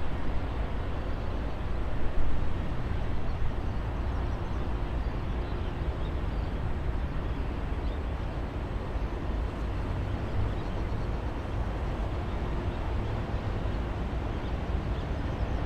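Distant jet aircraft engine noise, a steady low rumble without a clear whine, easing slightly over the first few seconds and then holding level.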